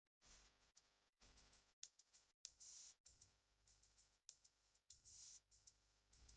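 Near silence: faint hiss with a few tiny clicks.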